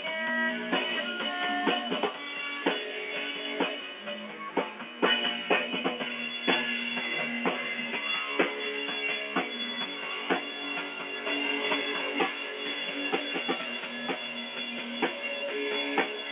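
A band playing a rock song: a drum kit keeps a steady beat on bass drum and snare under sustained guitar chords.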